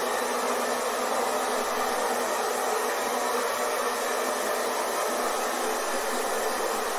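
Hair dryer running steadily: an even whooshing fan noise with a faint motor hum, no change in speed.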